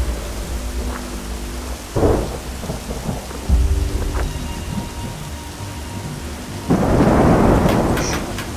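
Thunderstorm: heavy rain falling with thunder rumbling, rising suddenly twice early on and swelling into a louder burst about two-thirds of the way through.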